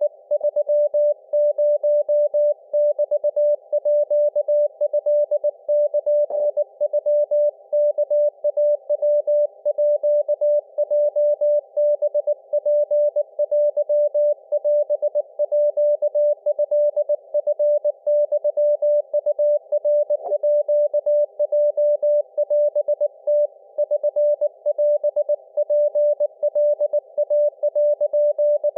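Morse code (CW) tone from an Icom IC-705 amateur radio transceiver, a single steady pitch keyed on and off in quick dots and dashes: a Japanese wabun Morse exchange on the 7 MHz band, heard through the radio's narrow CW filter with faint band noise around the tone.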